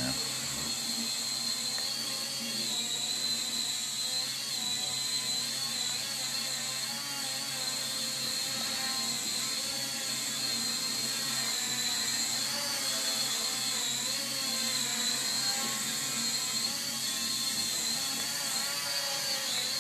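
Small toy drone in flight: its tiny motors and propellers give a steady high whine that wavers slightly in pitch as it is steered.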